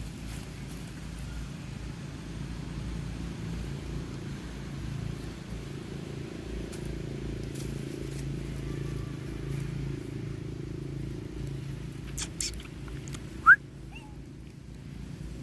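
A steady low rumble with a few clicks, then one short, sharp rising squeak near the end from a monkey.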